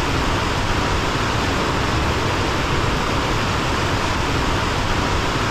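Waterfall and creek water rushing, a steady even wash of noise.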